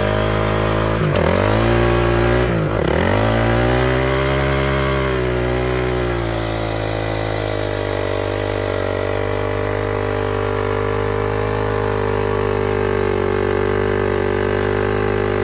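Dirt bike engine running. Its pitch dips sharply and comes back up twice in the first few seconds, then it holds a steady speed before cutting off at the end.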